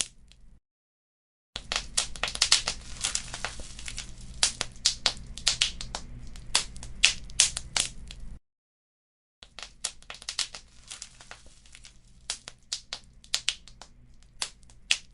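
Wood fire crackling, with many sharp pops and snaps over a low hiss. The sound cuts out completely twice for about a second, shortly after the start and just past the middle. The crackling is sparser after the second gap.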